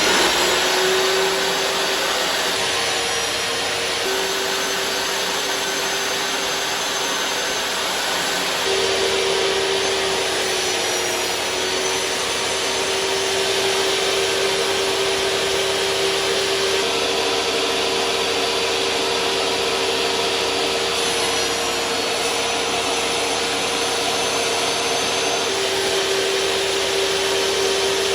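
Electric power saw running with dust extraction while cutting sheet material: a steady motor whine over a rushing noise, the whine shifting slightly about nine seconds in and again about twenty-one seconds in.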